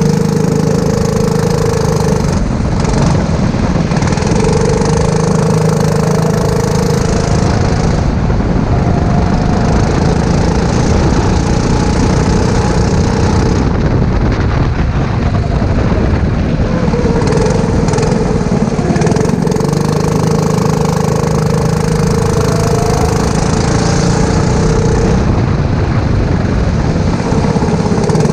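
Go-kart engine running hard, its pitch falling away and climbing back several times as the throttle is lifted and reapplied, with a steady hiss of noise throughout.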